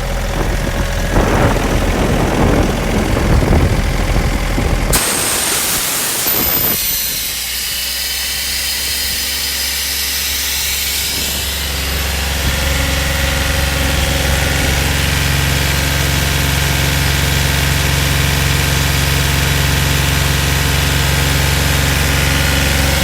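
Ingersoll Rand 7/31 mobile air compressor running, its engine drone overlaid with a hiss of compressed air. The sound changes abruptly about five seconds in, then settles into a steady engine tone with hiss.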